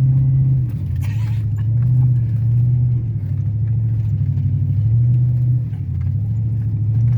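Pickup truck engine running under load in four-wheel drive over rough ground. Its low drone rises and falls in pitch every second or so as the throttle comes on and off.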